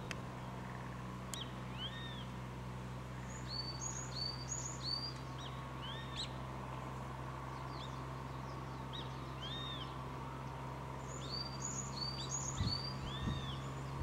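Wild birds calling: many short, arched chirping notes, several coming quickly one after another in two bursts, about four seconds in and again near the end, with single notes between. A steady low hum runs underneath.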